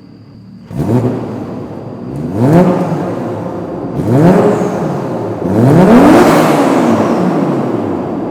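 Toyota Soarer's twin-turbo 1JZ inline-six heard from inside the cabin, pulling away from near idle at full throttle: the engine note climbs in pitch, drops back and climbs again several times as it is shifted up through the gears, then falls away near the end as the throttle is lifted.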